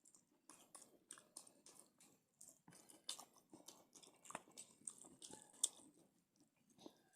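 A person chewing chicken, with irregular wet chewing sounds and sharp crunches, the loudest about three, four and a half and five and a half seconds in.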